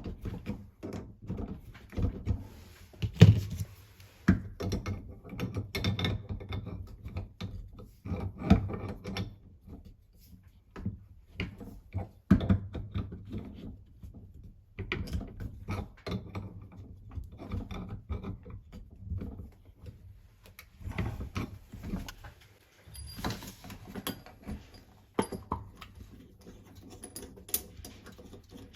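Irregular clicks, knocks and scrapes of hand tools and faucet parts being handled during repair work on a washing-machine faucet, with a louder knock about three seconds in.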